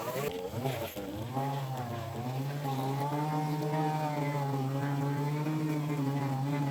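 Small petrol engine of a handheld Stihl garden tool running at working speed, its pitch wavering for the first two seconds and then holding steady.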